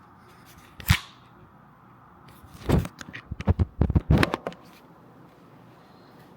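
A small handheld gimbal camera being dropped: one sharp knock about a second in, then a rapid run of knocks and clattering about three to four and a half seconds in.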